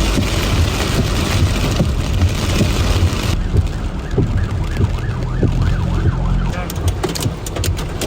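Hail and heavy rain drumming on a vehicle in a dense, steady wash. About three seconds in, the wash thins and a fast warbling, siren-like tone rises and falls repeatedly. Sharp hailstone cracks come near the end.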